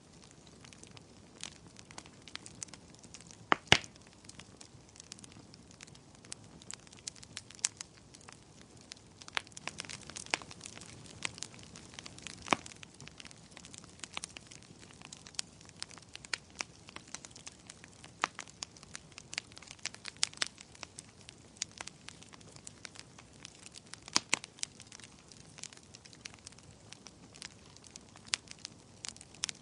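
Wood fire crackling, with irregular sharp pops and snaps over a low steady hiss; a few pops stand out louder, one a few seconds in and another near the end.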